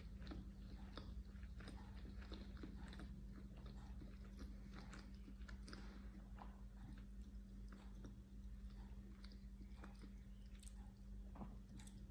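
Faint close-miked chewing of sushi rice, many small soft mouth clicks, over a low steady hum.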